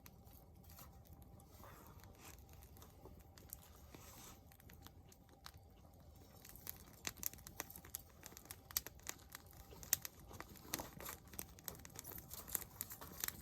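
Wood campfire crackling: irregular sharp pops and snaps that come thicker after about six seconds.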